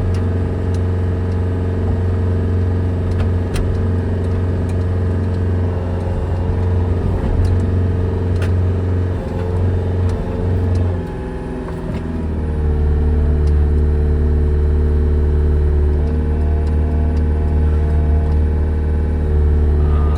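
An engine of farm machinery runs steadily. About eleven seconds in its note dips, then settles a little lower and louder. A few faint clicks and knocks come through over it.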